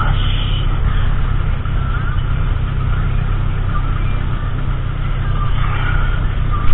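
Steady low mechanical hum of a running motor under a constant hiss, with one short sharp click near the end.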